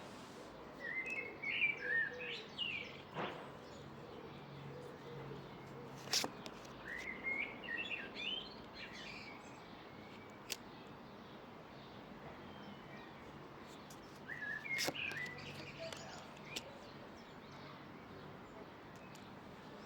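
Songbird chirping in three short spells of song, about a second in, around seven seconds and again near fifteen seconds, over a faint steady outdoor hiss, with a few sharp clicks in between.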